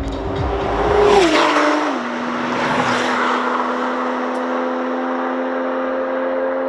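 Porsche 911 Turbo and Mercedes C63 AMG engines at full throttle in a drag race, loudest about a second in as they pass close. The pitch drops a step about a second and a half in, then settles into a steady drone.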